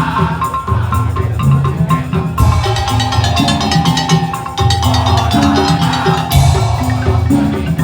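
Madurese musik tong-tong (dhaul) percussion ensemble playing a fast, driving rhythm: struck wooden and pitched percussion over booming low drum strokes.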